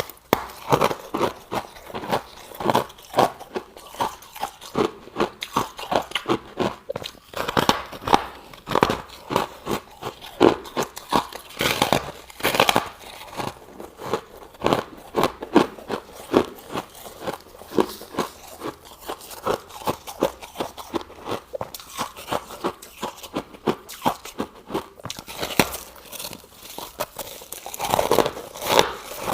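Freezer frost being chewed close up: rapid crunching of icy frost, several crunches a second.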